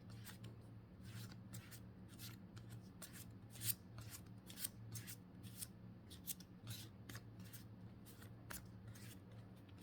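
Pokémon trading cards being slid and flipped one by one, a soft swish of card stock a few times a second, faint, over a steady low hum.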